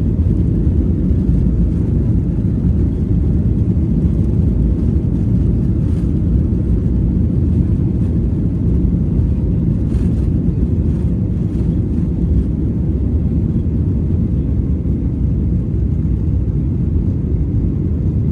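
Airliner's engines and rushing air, a steady low rumble heard inside the cabin during the climb after takeoff.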